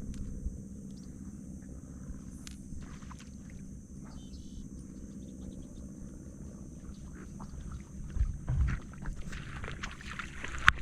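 A boat motor running steadily, with scattered knocks and rustles over it and a louder swell about eight seconds in.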